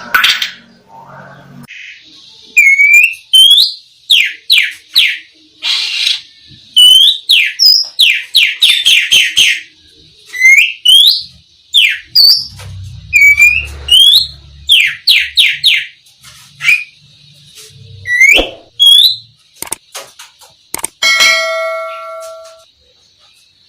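Oriental magpie-robin (black-breasted East Javan kacer) singing loudly: repeated upward-sweeping whistles and fast runs of sharp notes in phrases with short pauses between them.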